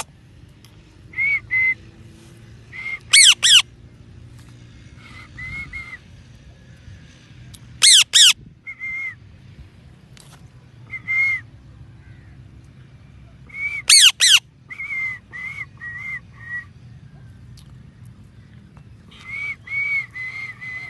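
Pet parrot calling in bursts: short, clear whistled notes in groups of two to four. Three loud, steeply falling whistles come about 3, 8 and 14 seconds in.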